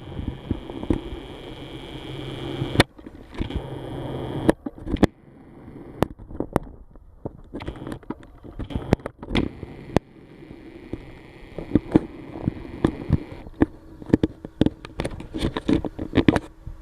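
Footsteps crunching and scraping on gravel, irregular sharp crunches throughout, with a vehicle's engine humming in the first four seconds or so.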